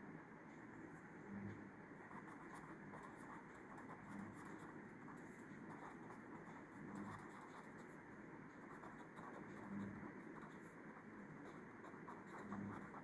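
Faint scratching of a pen writing, with soft low knocks roughly every three seconds over quiet room tone.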